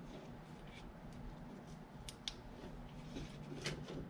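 Quiet shop room tone, a low steady hum, with a few light clicks and taps of handling: about two seconds in, again shortly after, and once more near the end.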